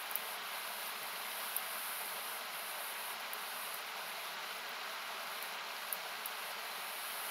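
Steady, hiss-like rush of a loud river, thinned by an equaliser, with a few sharp crackles from a wood campfire: one just after the start, one about a second and a half in, and two close together near six seconds.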